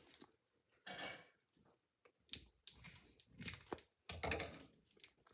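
Kitchen handling noise: a handful of short, separate knocks and scrapes, like dishes and utensils being moved on a counter.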